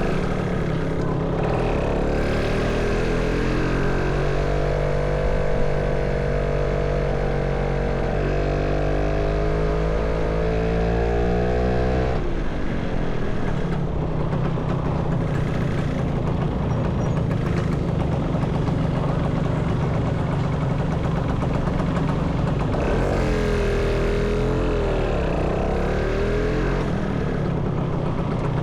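Motorcycle engine and road noise while riding: the engine note climbs a few seconds in, steps near eight seconds as it changes gear, climbs again and falls away suddenly about twelve seconds in as the throttle closes, then settles into a steady low hum. A brief wavering tone comes near the end.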